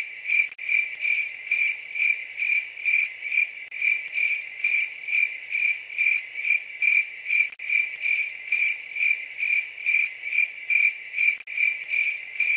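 Cricket chirping, one high chirp repeated evenly a little over twice a second.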